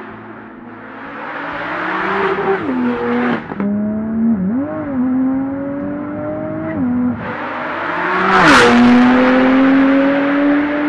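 Porsche 991.2 Turbo S twin-turbo flat-six running through a Kline Inconel exhaust, accelerating hard through the gears. The pitch climbs and then drops abruptly at each upshift. It is loudest about eight and a half seconds in, with a brief rushing hiss.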